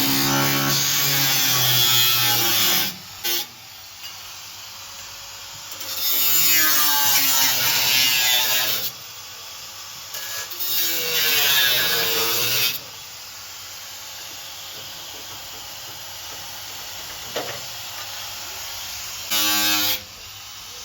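A power tool working on car bodywork in four bursts of a few seconds each, with pauses between them; it sounds like sanding or grinding.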